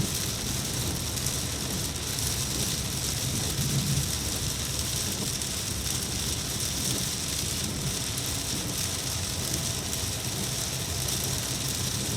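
Steady rain falling, an even hiss throughout, with a low rumble that swells briefly about three to four seconds in.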